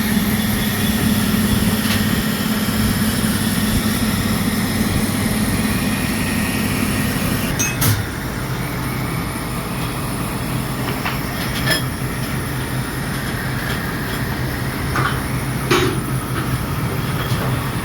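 Workshop machinery running with a steady hum. After a sharp clunk about eight seconds in, the hum settles lower, and a few sharp metallic clicks follow.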